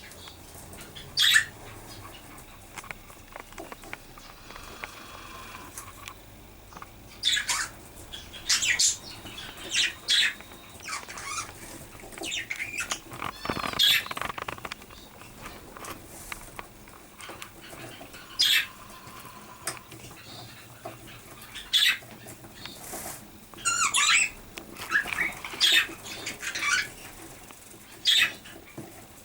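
Budgerigars calling: short chirps and squawks at irregular intervals, some in quick clusters.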